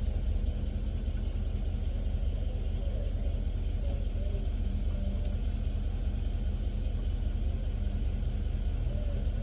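A car engine idling: a steady low rumble heard from inside the cabin.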